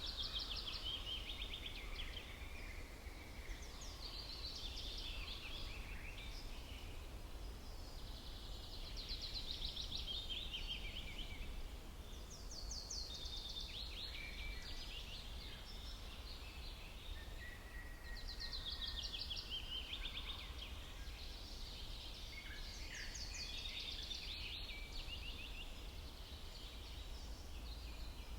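Songbirds singing short, rapid trilled phrases every few seconds, over a low steady background rumble.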